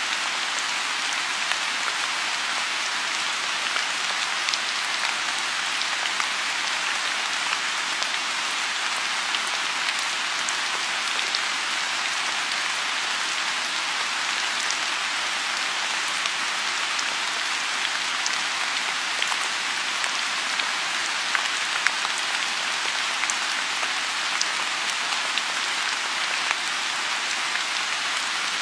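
Steady rain falling on a lotus pond: an even hiss with many scattered single drop ticks through it.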